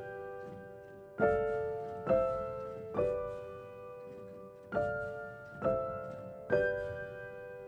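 Background piano music: slow, soft chords, each struck and left to ring and fade, about one a second.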